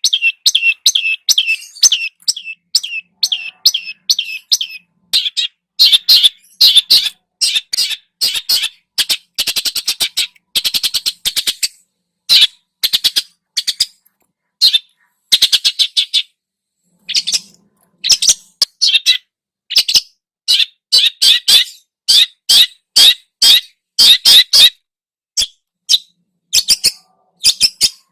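Songbird calling in rapid runs of short, sharp, high chirps, several notes to a burst, with brief pauses between bursts.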